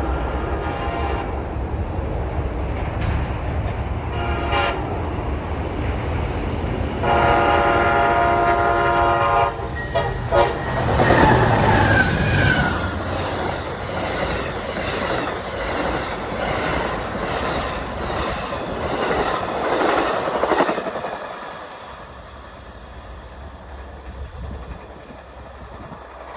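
Amtrak passenger train's locomotive air horn sounding a short blast near the start, another about four seconds in, and a long blast about seven seconds in. The train then passes close by, with wheels clacking over the rail joints for about ten seconds, and the sound falls away.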